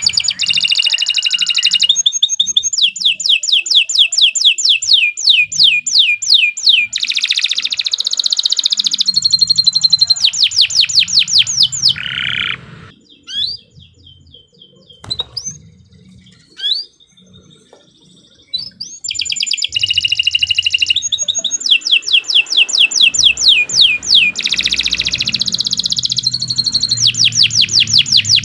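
Domestic canary singing long, rapid rolling trills of high repeated notes. It breaks off for several seconds about halfway through, giving only a few scattered notes, then resumes with more long trills.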